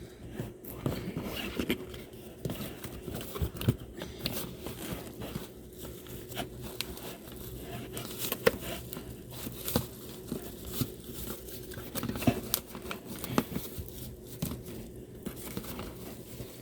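Plastic packaging crinkling and rustling in irregular bursts of small crackles and clicks as small sewing-machine accessories are handled and unwrapped.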